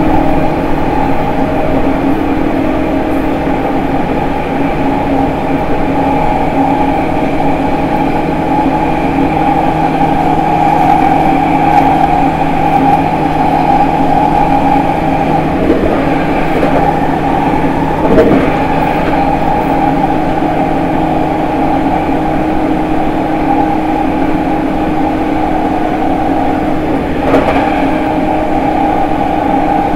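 E231 series 1000-subseries electric train running at a steady speed, heard at the gangway plates between cars: rolling noise with steady motor tones from the updated later-type Hitachi IGBT-VVVF inverter drive. A few short clatters come through, one about halfway and another near the end.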